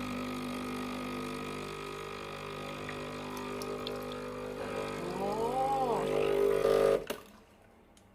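Breville Barista Express espresso machine's pump humming steadily as it pushes water through the portafilter to pull a shot, with a tone that rises and falls a little over its last couple of seconds. It grows louder, then cuts off suddenly about seven seconds in as the shot ends.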